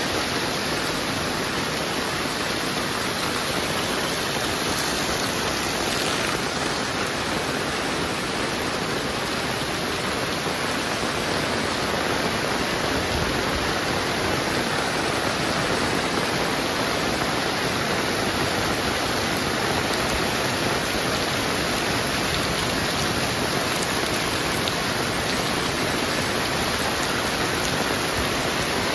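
Heavy rain pouring steadily, a dense even hiss with no break.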